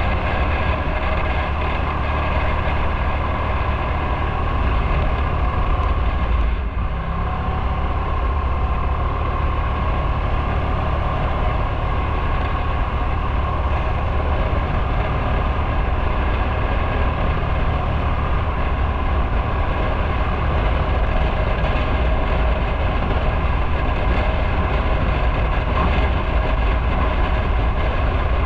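Motorcycle engine running steadily under way, with a deep rumble and wind rush; the sound dips briefly about six and a half seconds in.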